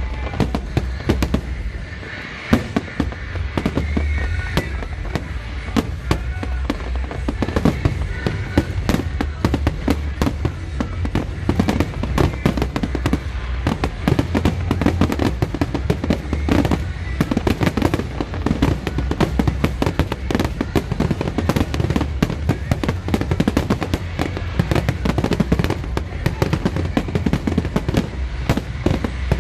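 Aerial fireworks display in a dense, almost continuous barrage: many bangs and crackles a second over a deep rumble of shell bursts.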